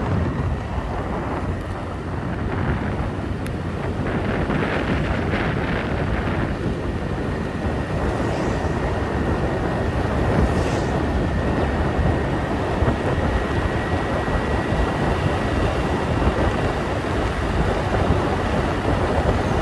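Motorbike ride heard from on the bike: wind rushing over the microphone over the engine and road noise, with a thin steady high tone running through it, a little louder from about four seconds in.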